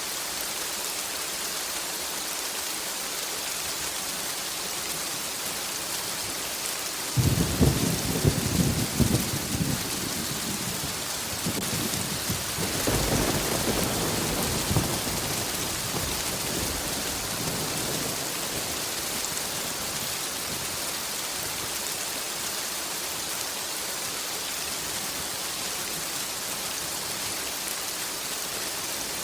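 Steady rain falling, with a thunderclap about a quarter of the way in: sharp cracks followed by a rolling rumble that swells again and dies away about halfway through.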